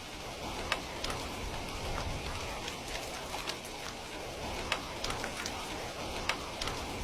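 Steady rain hiss mixed with a crackling wood fire: a handful of sharp, separate pops, the loudest just under a second in and again near five seconds.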